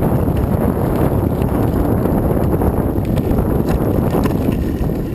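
Wind buffeting the microphone of a moving rider, a loud steady low rumble mixed with road noise.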